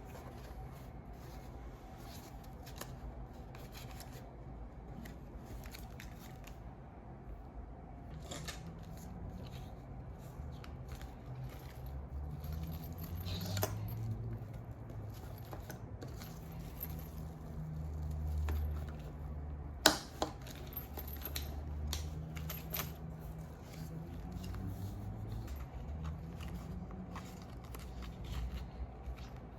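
Light handling noises at close range: scattered soft clicks and rustles over a low rumble, with one sharp click about twenty seconds in.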